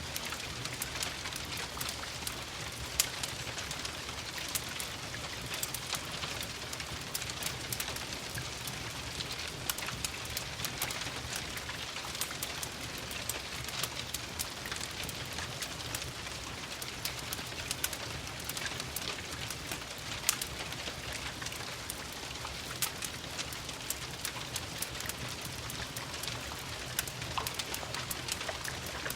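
Steady rain with a crackling fireplace: an even hiss of rain, dotted throughout with frequent small, sharp pops and crackles.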